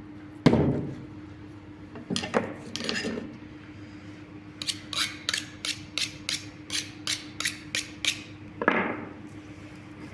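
Food-preparation knocks and taps: a heavy thump, two knocks, then a run of about a dozen sharp, evenly spaced taps at about three a second and one more thump, over a steady low hum.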